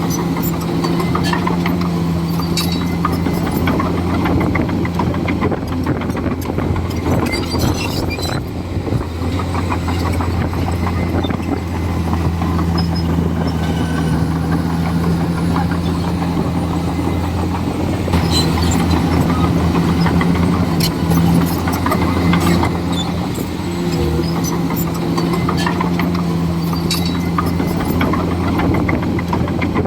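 Komatsu D41E bulldozer's diesel engine running steadily under work, its pitch shifting a few times as the load changes, with frequent short clanks and cracks from the tracks and pushed debris.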